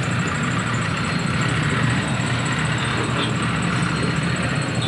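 Road traffic: several vehicle engines running and idling together in a steady, even drone.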